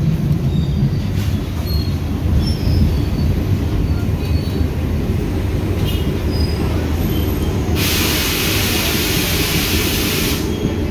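Passenger train carriage in motion, heard from inside: a steady low rumble of the wheels and running gear with faint short squeaks. About eight seconds in, a loud high hiss starts and lasts about two and a half seconds.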